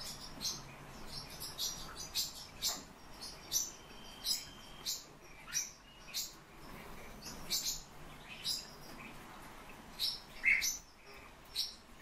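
Pet birds chirping in short, high calls, about one or two a second, the loudest a lower chirp near the end, over a thin stream of tap water running into a stainless steel sink.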